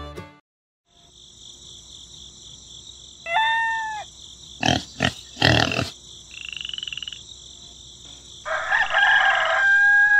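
Farm-at-dawn nature sound effect: a steady high chirring background with frog croaks, then a rooster crowing for the last couple of seconds.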